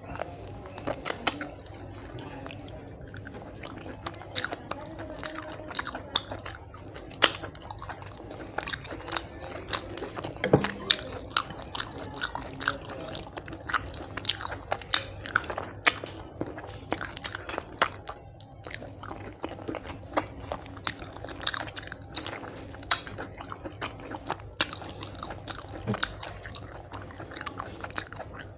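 Close-miked chewing of hand-mixed rice and fish curry: mouth sounds with frequent sharp clicks at an irregular pace.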